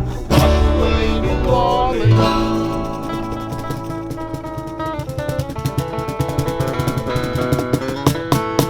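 Country song played on acoustic guitars: steady strumming, with a bending melody line over it in the first couple of seconds.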